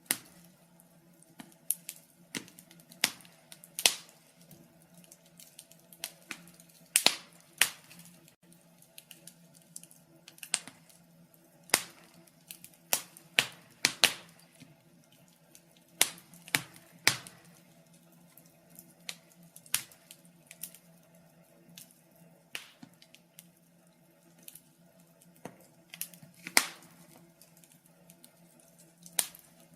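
Wood fire crackling, with irregular sharp pops and snaps, several loud ones close together around the middle, over a faint steady low hum.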